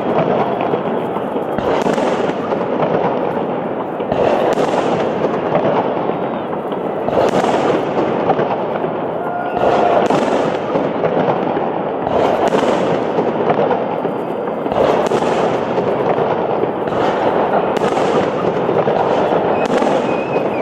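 Fireworks salute going off in repeated volleys, a bang about every two to three seconds over continuous crackling, with a few faint whistles.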